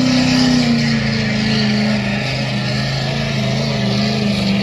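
Pulling vehicle's engine running hard at high, steady revs under load, its pitch dipping slightly about a second in.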